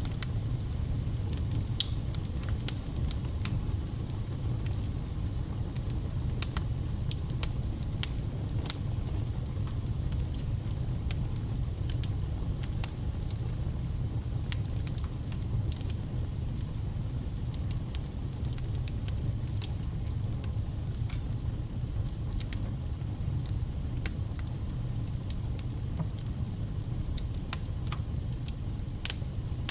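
Wood fire burning, crackling with frequent sharp pops over a steady low rumble of the flames.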